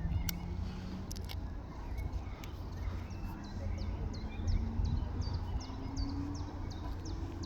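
Class 43 HST's diesel engine note climbing slowly and steadily under heavy wind rumble on the microphone, with a bird repeating a short high falling chirp about twice a second from the middle on.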